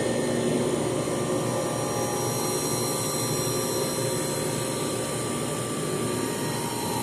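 Walk-in freezer refrigeration unit running steadily: a dense mechanical hum with several thin, steady whining tones over it. The system is pulling its suction side into a vacuum.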